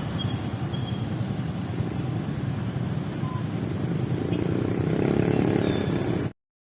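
Steady low background rumble with a few faint, short high chirps over it. It cuts off abruptly to silence a little over six seconds in.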